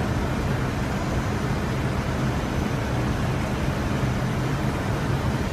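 Steady flight-deck noise of an airliner on final approach: continuous airflow rush over a constant low engine hum.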